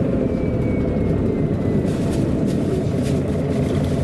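MAN A23 articulated city bus driving, its diesel engine and drivetrain running steadily, with a faint whine that slowly falls in pitch and a few light rattles.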